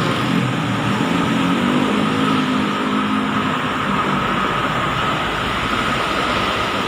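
Steady mechanical running noise like an engine or machine, with a thin, constant high whine over it.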